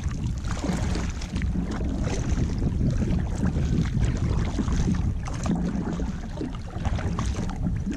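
Kayak paddle strokes swishing and splashing through weedy water, the blade turned backwards so it cuts through the weeds, over steady wind rumble on the microphone.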